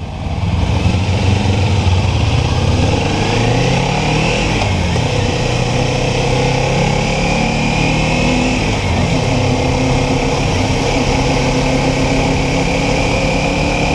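Kawasaki Ninja 400 parallel-twin motorcycle engine accelerating through the gears, its pitch climbing and dropping back about four and eight seconds in as it shifts up, over steady wind rush.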